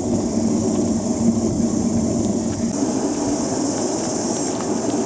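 Old top-loader washing machine's motor and drum running slowly under a heavy load of lead-acid batteries: a steady mechanical hum with a constant hiss and a few faint ticks. The machine's bearings are noisy.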